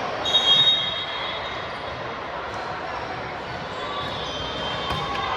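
A referee's whistle blows one short, shrill blast about half a second in, over the steady murmur and shuffling of a volleyball gym.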